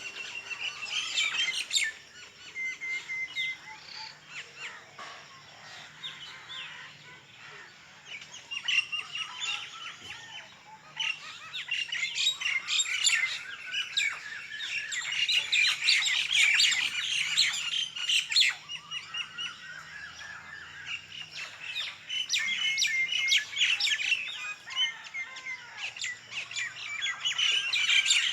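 Many small birds chirping and calling at once, a dense chorus of overlapping chirps, squawks and short rising calls, thinning out for a few seconds early on and thickest near the middle and end.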